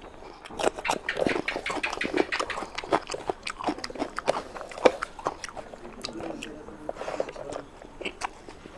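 Close-miked chewing with wet mouth clicks and smacks, dense for the first half and sparser after, along with the squish of a hand mixing curry into rice.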